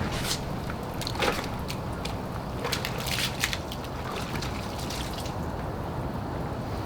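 Water splashing and dripping on a car being washed, in scattered short splashes over a steady low hum.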